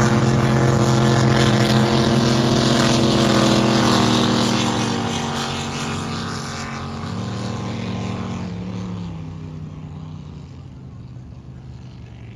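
Drag boats racing side by side at full throttle with a loud engine sound. About five seconds in, the engine note drops in pitch and fades as the boats run off down the course.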